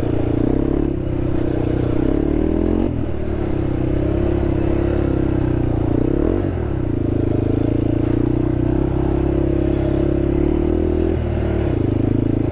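Honda TRX sport quad's engine running under way off road. Its pitch falls at about three seconds, dips and climbs again around six seconds, and falls again near eleven seconds as the throttle changes.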